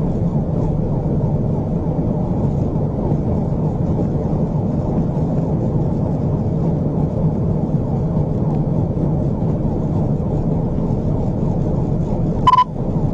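Steady road, wind and engine noise from inside a police patrol car driving at high speed in a pursuit. Near the end there is a single short high beep.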